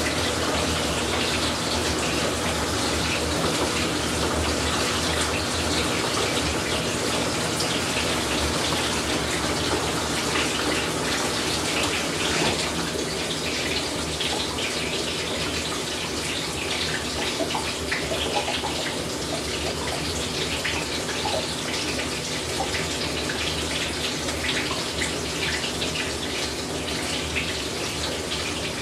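Whirlpool Cabrio top-load washer with water running steadily into the tub, a continuous rush of water over a faint low hum.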